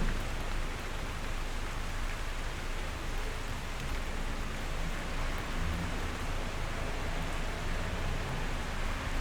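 Steady rain falling on a window: an even hiss of many drops that does not change.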